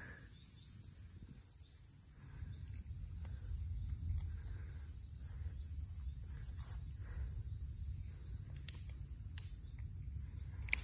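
Steady, high-pitched chorus of insects in the summer grass, unbroken throughout, over a low rumble.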